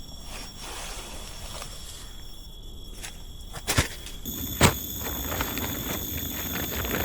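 Steady high-pitched insect calls from the forest, with more insects joining about four seconds in, and two sharp knocks close together just before that change.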